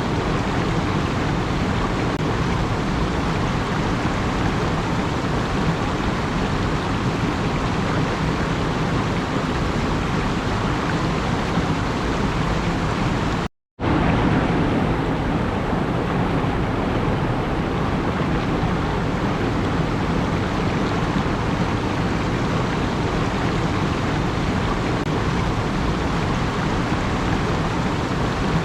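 A steady, even rushing noise at a constant level, with no rhythm or tones in it. It cuts out abruptly for a split second about halfway through, then carries on unchanged.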